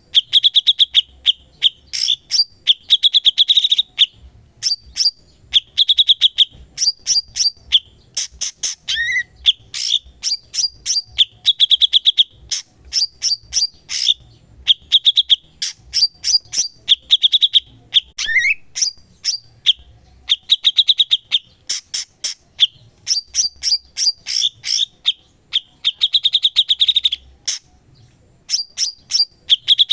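Cucak cungkok songbird singing prolifically: a dense run of rapid, sharp chirps broken by repeated buzzy trilled phrases, with a short rising note about 9 seconds in and again near 18 seconds.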